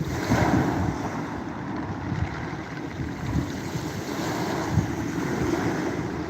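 Ocean surf on a beach: a wave breaks and washes in at the start, then a steady hiss of water. Wind rumbles on the microphone underneath.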